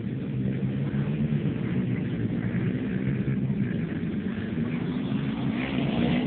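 Motocross dirt-bike engines running and revving, their pitch rising and falling, a little louder near the end.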